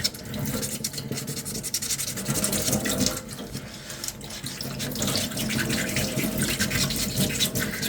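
Sandpaper being rubbed back and forth by hand over a small 3D-printed plastic armour piece, a steady rasping scrub of quick short strokes that eases off a little about three seconds in.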